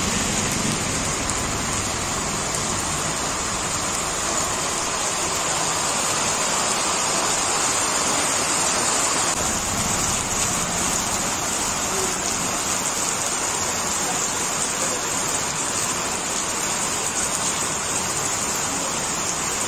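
Heavy rain falling steadily, its drops splashing onto standing water on a road.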